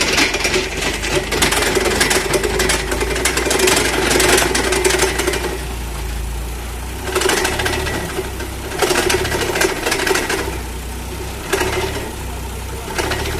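Tractor engine running steadily, getting louder in several stretches: a long one at the start, then shorter ones later.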